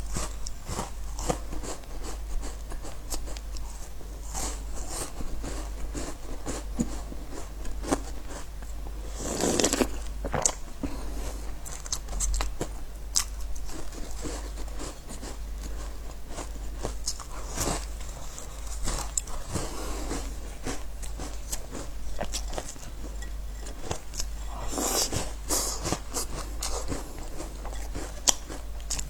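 Crisp biscuits bitten and chewed close to the microphone: many small crunches throughout, with two longer, louder bursts about ten seconds in and around twenty-five seconds, over a steady low hum.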